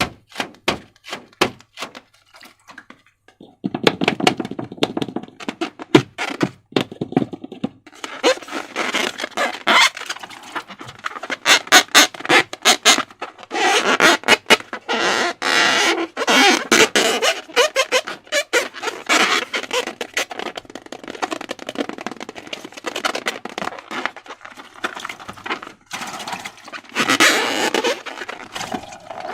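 Slime being handled and squished: a run of sharp, evenly spaced clicks for the first few seconds, then a dense, continuous sticky crackling and squelching.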